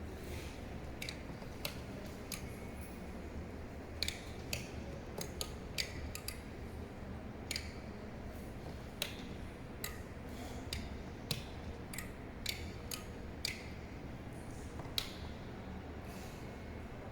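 Irregular sharp clicks, one or two a second with pauses between, over a low steady hum.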